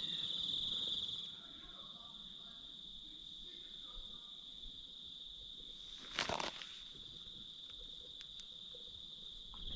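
Insects trilling in one steady, high-pitched tone, a little louder for the first second or so. There is one short noise about six seconds in.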